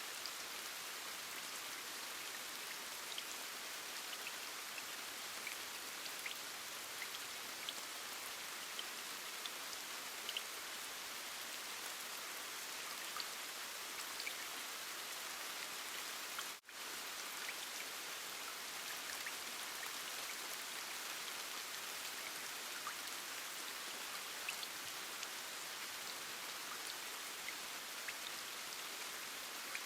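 Steady rain with scattered individual drops ticking on a surface. It briefly cuts out for a split second about halfway through, then resumes.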